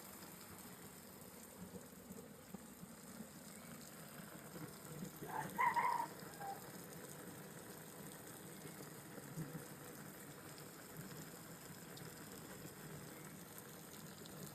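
Water spraying steadily from a hose or sprayer onto plants. A brief high-pitched call rises above it about halfway through.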